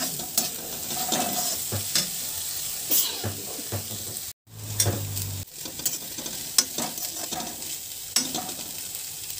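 Chopped cluster beans (gawar fali) sizzling in hot oil in a metal kadhai while a steel spoon stirs them, scraping and clinking against the pan again and again. The sound cuts out for a moment about four and a half seconds in.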